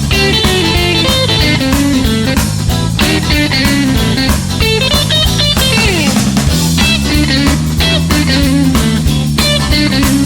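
Blues-rock band playing an instrumental break: a guitar carries the lead line over bass and drums, with a long downward slide about six seconds in.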